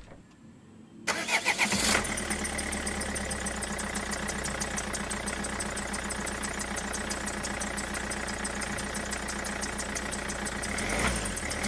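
An engine cranks about a second in, catches, and settles into a steady idle with a fast, even putter.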